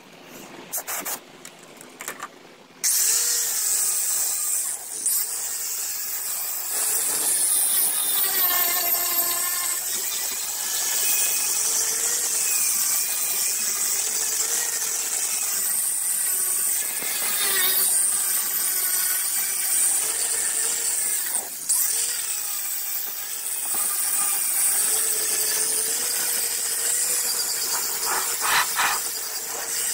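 A power grinder starts up about three seconds in and runs steadily under load, its motor pitch wavering as it is worked against the surface.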